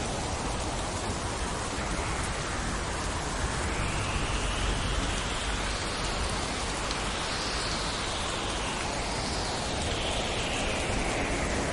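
Steady rain falling: a constant, even hiss with a low rumble underneath.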